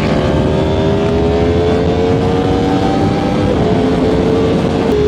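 Yamaha R1 motorcycle's inline-four engine running while being ridden, its note rising slowly for about three seconds and then holding steady at cruise.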